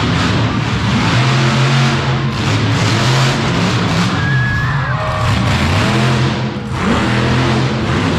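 Monster truck engine revving, with music playing underneath.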